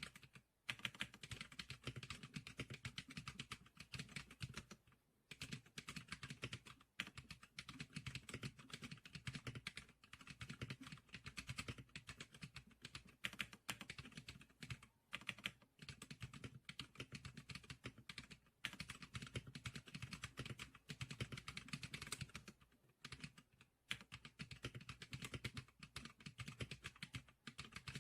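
Geeclicker SPK100 keyboard being typed on: fast, continuous keystroke clicks in runs, with short pauses every few seconds.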